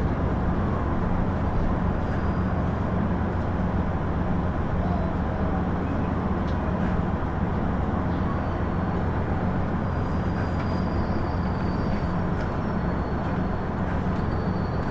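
KiHa 110 series diesel railcar (KiHa 112) under way: a steady diesel engine drone with the rumble of the wheels on the rails, at an even level throughout.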